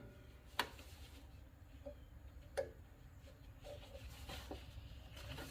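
Faint clicks of a snap ring and tool being worked onto the shift lever, with two sharper ticks about half a second and two and a half seconds in, over a low steady hum.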